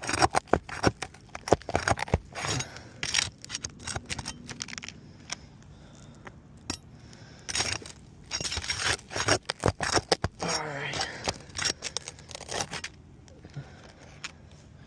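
Scraping, clicking and crackling of tools working loose brittle asphalt roof shingles, with short tearing and rustling sounds as the shingles are lifted and pulled. The sharp clicks come in irregular clusters, the busiest stretch around the middle.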